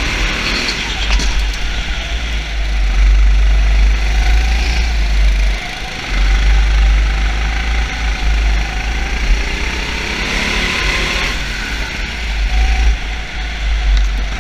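Car engine running, mostly at idle, with a steady low rumble.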